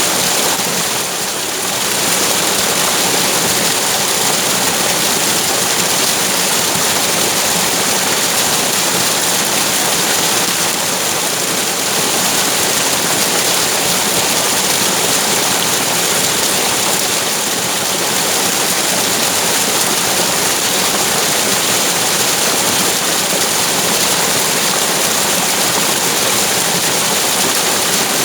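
Loud, steady rush of flowing water, an even hiss and roar with no pauses.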